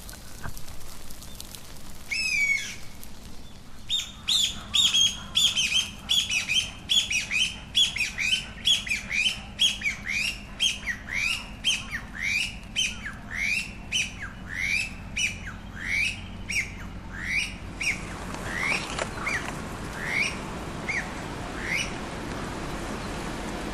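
A bird calling over and over: short, high, upward-curving notes about two a second, thinning out near the end.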